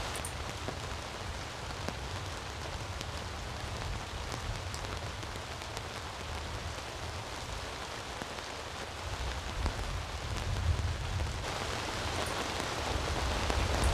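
Heavy rain falling steadily, with scattered drop ticks. A low rumble swells about ten seconds in.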